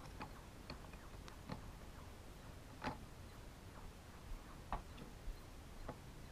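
Faint, scattered small clicks and taps of chainsaw handle parts and wiring being handled and fitted into a Husqvarna T435 top-handle saw. The loudest click comes a little under three seconds in.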